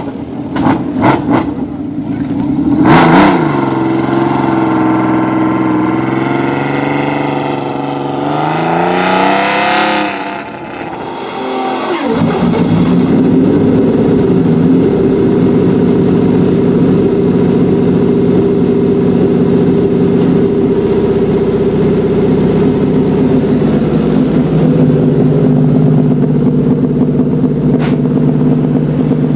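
Honda CBX 1100 inline six-cylinder motorcycle engine revved: three quick sharp blips, then a longer rev that rises and falls. About twelve seconds in it cuts suddenly to a loud, steady high-revving six-cylinder howl that holds.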